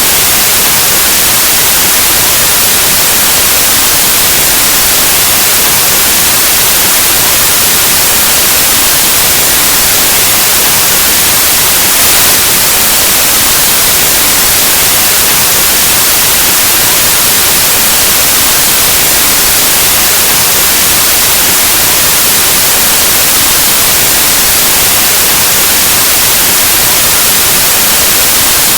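Steady white noise: a loud, even static hiss spread across all pitches, strongest in the highs, with a tiny brief lift about twelve seconds in.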